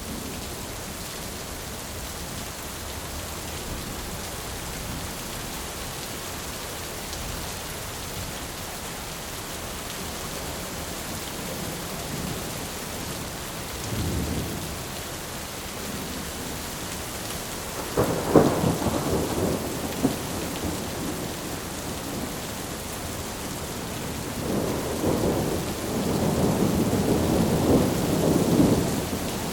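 Thunderstorm: steady rain with thunder, a low rumble about halfway, a louder crack and rumble a little past the middle, and a long rumble building near the end.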